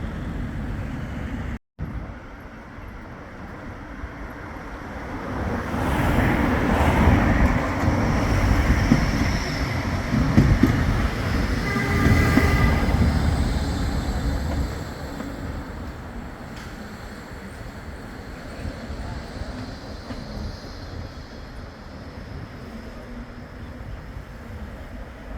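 Bombardier Flexity 2 light-rail tram passing: its running rumble swells over a few seconds, stays loud for several seconds, then fades away. A brief high ringing tone sounds about halfway through.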